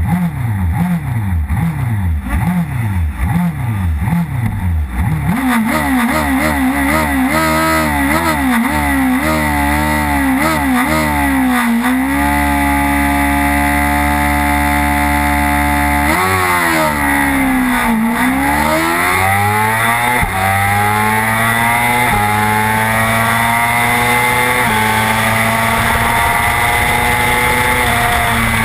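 Racing motorcycle engine heard onboard. For about five seconds the throttle is blipped in quick repeated revs. Then the bike pulls hard and revs up through the gears in steps, falls in pitch as it brakes and downshifts a little past halfway, and accelerates up through the gears again.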